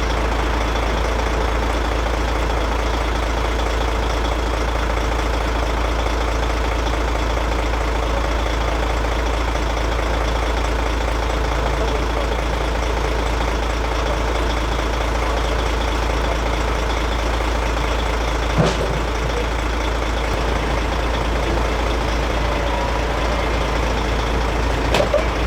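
Large truck's diesel engine idling steadily, with a couple of short knocks, one past the middle and one near the end.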